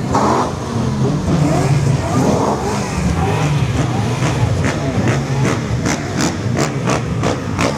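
Car engine running and revving, with a run of sharp cracks from about five seconds in to near the end.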